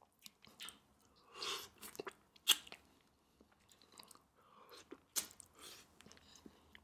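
Soft, close-miked chewing on a Cajun prawn, with a few sharp crunches of shell, the loudest about two and a half seconds in and another about five seconds in.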